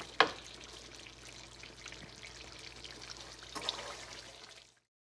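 Karahi gosht sizzling gently in its own oil in a wok as it is stirred with a wooden spatula, at the bhuna stage once the oil has separated. A sharp knock of the spatula against the pan comes just after the start, a few light clicks near the end, and then the sound cuts off abruptly.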